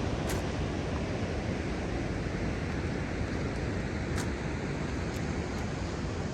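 Steady rush of ocean surf breaking below, with wind buffeting the microphone and a few faint ticks.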